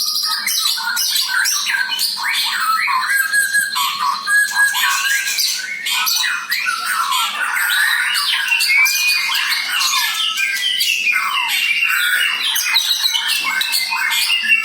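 White-rumped shama singing a continuous, rapid, varied song of whistled notes, slurs and trills. It is a bird whose hoarse voice the uploader says was cured by treatment.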